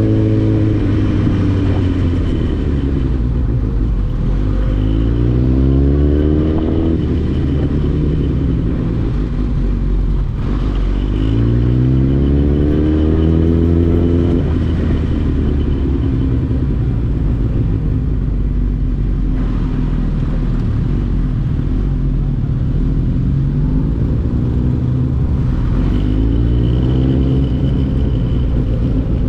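Superbike engine accelerating hard on the highway. Its pitch climbs in several long sweeps, each one falling back as the rider shifts up a gear.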